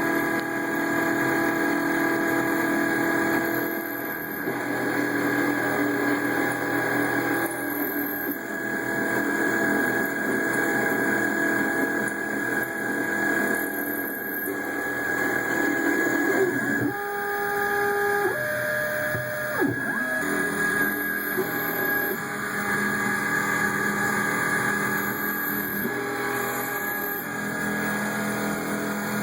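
CNC-converted mini-mill machining, with its stepper motors whining in steady tones that shift pitch in steps as the axes change speed. About two thirds of the way through there is a clear run of stepping tones during a quicker axis move.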